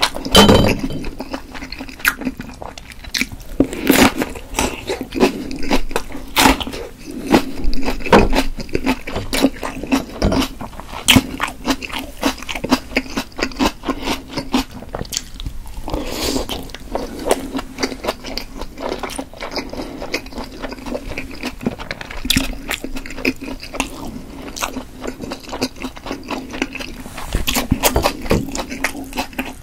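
Close-miked chewing and biting of steamed potato dumplings and raw red pepper: soft wet mouth sounds broken by crisp crunches and sharp clicks throughout.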